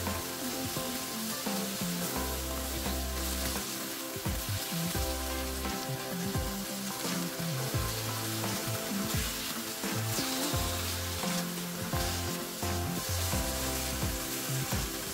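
Chopped vegetables (mushrooms, tomato and peppers) sizzling in oil in a frying pan as a spatula stirs them, with background music.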